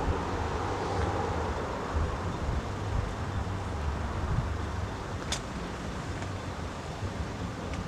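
Steady low rumble of road traffic with wind on the microphone, and a single sharp click about five seconds in.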